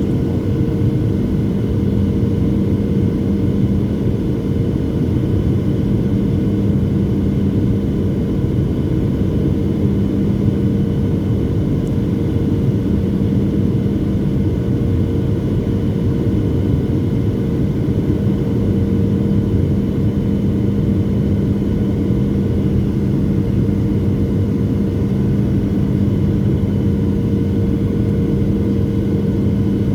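Boeing 737-700 airliner noise heard from the passenger cabin: a steady drone of its CFM56 jet engines and airflow, with a low hum and a higher steady tone running through it.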